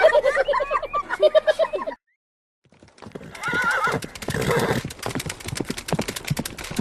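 A quavering, whinny-like animal call. It cuts off suddenly about two seconds in, and after a short silence comes a fast run of clicks and knocks, with a brief wavering call among them.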